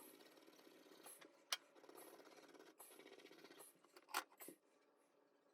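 Heavy-duty scouring pad scrubbing rust off a metal shower-drain part: a faint scratchy rubbing in strokes just under a second apart, with a sharp click about a second and a half in and another about four seconds in. The scrubbing stops a little past halfway.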